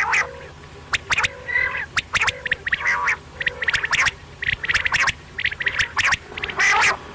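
Quail calling repeatedly: sharp notes in quick groups, over and over.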